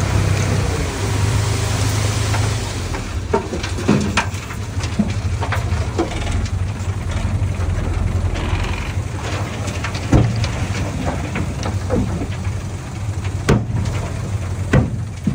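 Small bulldozer's diesel engine running steadily, its note dropping slightly about a second in, with a scattering of sharp knocks and clanks.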